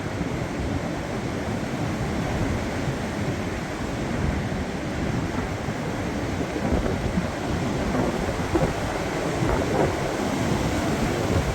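Strong windstorm gusts: a steady rush of wind buffeting the microphone, growing a little louder in the second half.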